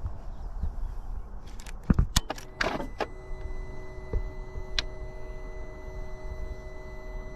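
Clicks and a short electric whirr as a BMW M 1000 RR motorcycle's ignition is switched on, then a steady electrical hum with a few lone clicks: the bike powering up just before its engine is started.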